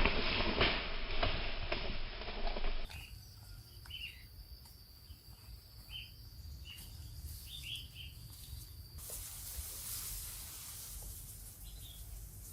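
A loud stretch of noise for about the first three seconds, cut off abruptly. Then come short bird chirps, several in a row, over a steady high insect whine, which give way about nine seconds in to a high, even hiss.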